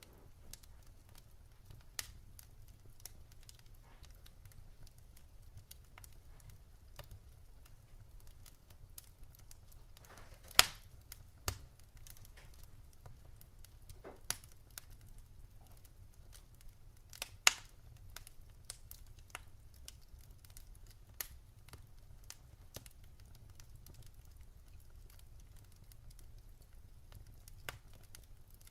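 Wood fire burning in a fireplace, crackling with scattered sharp pops over a low steady rumble; two louder pops stand out, about ten and seventeen seconds in.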